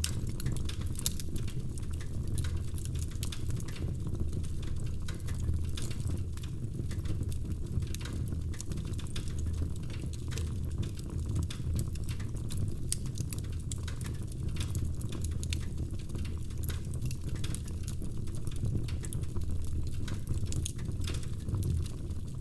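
Wood fire in a fireplace crackling: frequent small pops and snaps over a steady low rumble.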